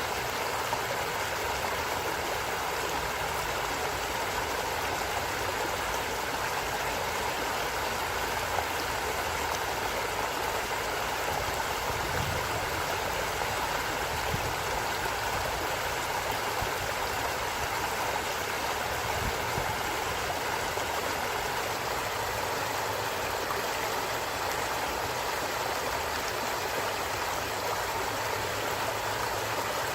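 A creek flowing steadily over rocks, an even rushing and babbling of running water.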